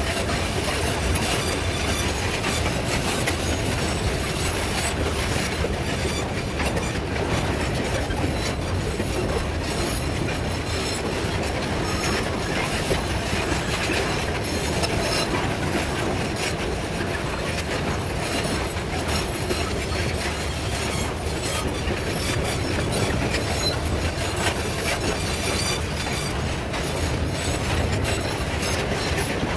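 Loaded metre-gauge freight train of boxcars and grain hopper cars rolling past close by: a steady rumble of steel wheels on the rails with a rapid, continual clicking over the rail joints.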